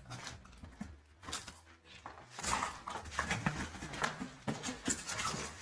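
Irregular handling noise of parts and packaging being picked up and moved: rustling with small knocks and clicks, busier after about two seconds.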